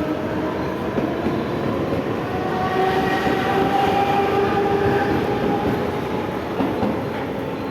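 Mumbai suburban EMU local train running, a dense rumble with a whine from its electric motors that holds through the middle and slowly eases near the end.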